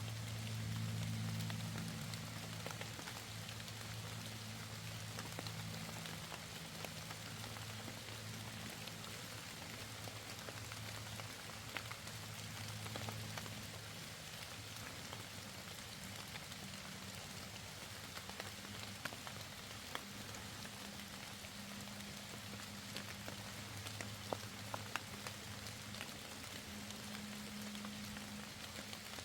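Steady rain falling, with single drops ticking sharply here and there over the patter, and a faint steady low hum underneath.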